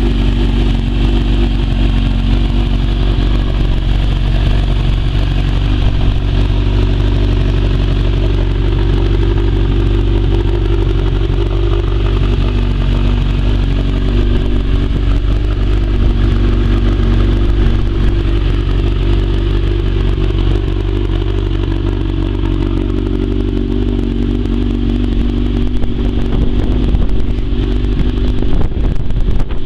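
Honda CB1000's inline-four engine idling steadily through its exhaust at an even pitch. Near the end the pitch begins to waver as the throttle comes in.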